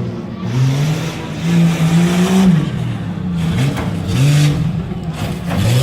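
A tough truck's engine revving hard in repeated surges, the pitch climbing and falling back several times as the driver works the throttle around the course.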